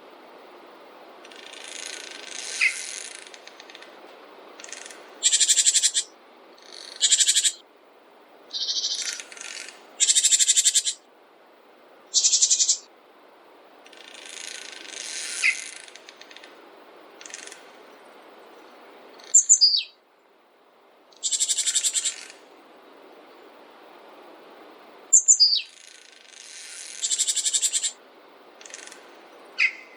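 Songbirds singing: short, bright trilled phrases repeating every few seconds, over a steady low background hiss.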